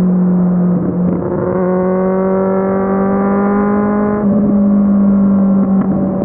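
Kawasaki Z750's inline-four engine pulling under throttle, its pitch rising steadily for about three seconds, then dropping suddenly about four seconds in as the revs fall.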